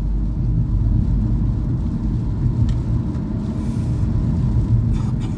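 Car driving, heard from inside the cabin: a steady low rumble of engine and road noise, with a couple of faint clicks near the end.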